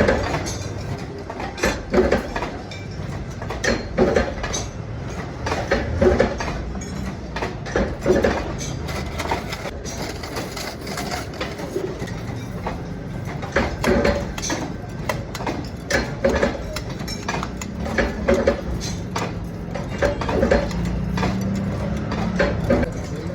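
A steady low machine hum with knocks that recur about every two seconds.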